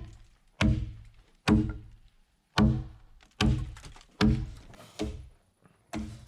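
Heavy strikes of a hand tool on a wooden log, about one a second, each a thunk that rings briefly with a low tone before dying away.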